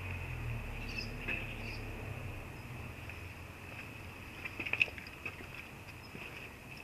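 VW Golf IV 1.4 16v petrol engine running quietly, with a low hum that eases off after about two seconds and a steady high whine. A cluster of light clicks comes about four to five seconds in.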